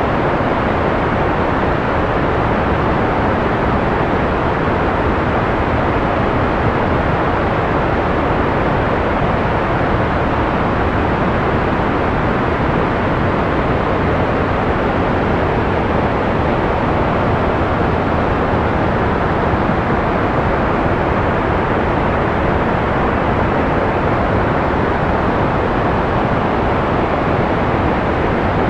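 Analog white noise: a steady, unchanging hiss, dull rather than bright, with little treble.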